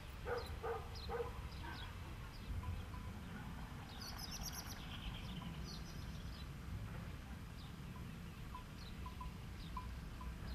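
Open-air ambience: small birds chirping and calling here and there over a low wind rumble, with a few faint dog yips in the first second or so.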